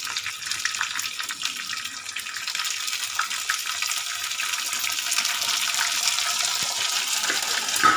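Small onions, curry leaves and chopped garlic frying in hot oil in a kadai: a steady sizzling hiss with fine crackles. There is a sharp tap near the end.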